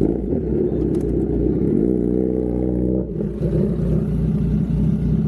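Kawasaki inline-four motorcycle engine running with a continuous low rumble. About two seconds in, a steady engine tone holds for about a second, then drops back into the rumble.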